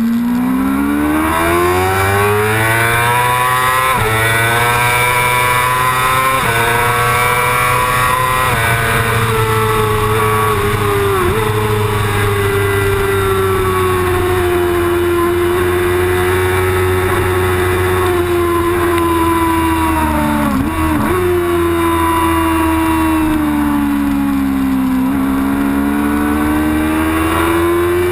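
Yamaha YZF-R6 inline-four race engine heard onboard at racing speed. It pulls hard through several quick upshifts, holds high revs, dips sharply for a moment about two-thirds through, eases off and then pulls up again near the end, with constant wind rush over the microphone.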